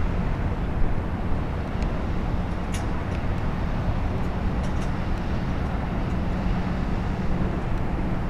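A ship's engines running, heard as a steady low rumble with a held hum and a few faint clicks.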